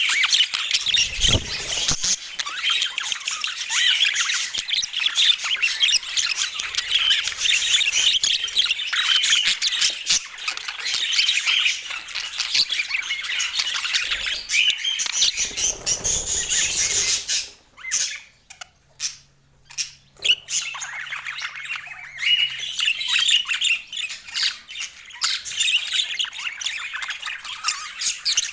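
Budgerigars chattering and chirping rapidly in a dense, busy twitter, with a short break about two-thirds of the way through before the chatter resumes.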